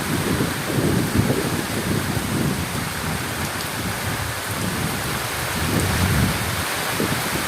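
Heavy rain falling steadily, with low rolling thunder rumbling throughout.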